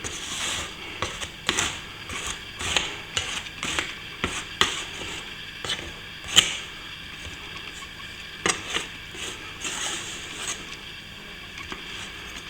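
Irregular scrapes and clicks of a metal plastering knife worked against the plaster while patching a crack, with one sharp click about six seconds in.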